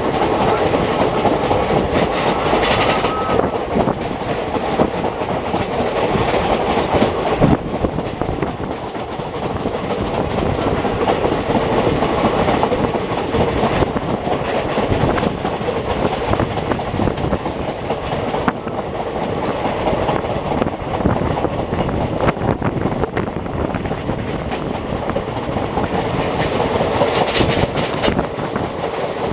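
Passenger train running at speed, heard from on board: a steady rumble with wheels clattering over the rails as the train crosses a bridge.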